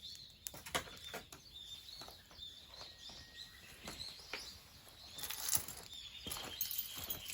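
Repeated short high chirps, like a small bird calling, with scattered sharp clicks and a brief rustling burst about five seconds in.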